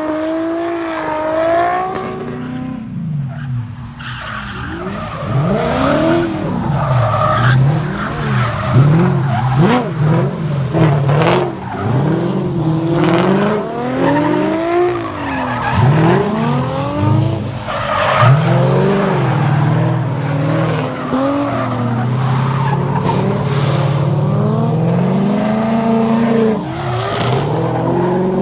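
Drift car engines revving hard and falling off again, over and over, as the cars slide, with tyre noise on wet pavement. The engines ease off briefly a couple of seconds in.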